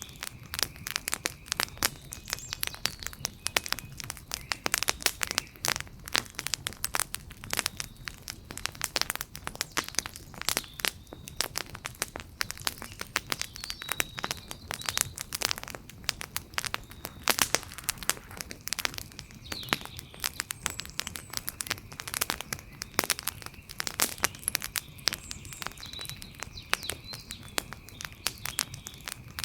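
Wood fire crackling, with many sharp, irregular pops and snaps, several a second, over a low steady hiss.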